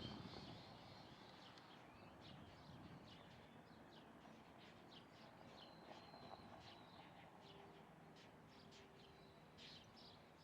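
Faint bird chirps and short calls, scattered and repeated, with a couple of brief held whistled notes, over a low background hiss.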